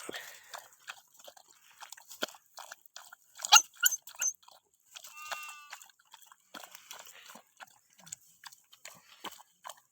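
Bhote puppies eating: irregular wet chewing, crunching and smacking noises, loudest a little over three seconds in, with one brief high whine about five seconds in.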